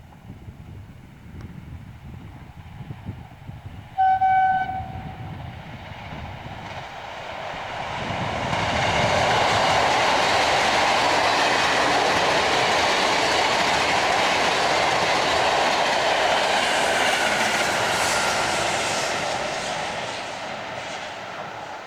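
A train horn sounds one short blast, then a train approaches and passes at speed: its noise builds over a few seconds, holds loud for about ten seconds and fades away.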